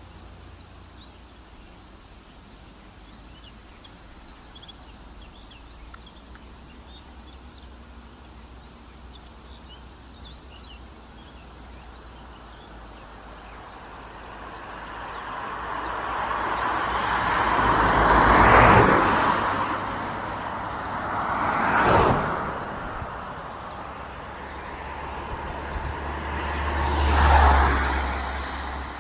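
Road vehicles passing by one after another: a long swell that builds and fades about two thirds of the way in, then two quicker passes, with faint bird or insect chirps in the quieter first half.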